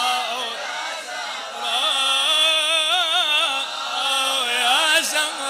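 A male latmiya reciter (radood) sings one long, drawn-out melismatic line. His pitch waves in heavy vibrato and ornamented turns, with no break for words.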